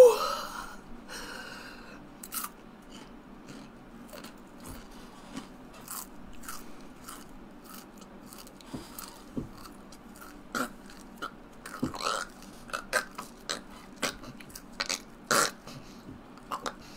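A person chewing and crunching a black scorpion: short crunches and mouth clicks, few at first, then coming thicker and louder from about ten seconds in.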